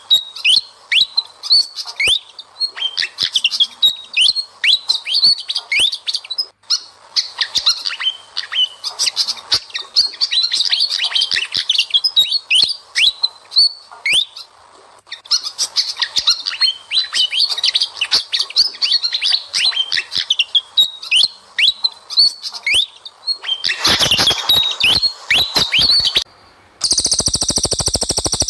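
Fast, chattering song of small songbirds from a training recording of sikatan kipas (pied fantail) and cililin: runs of sharp, falling high chirps. Near the end the song stops briefly and a steady, fast buzzing pulse takes over.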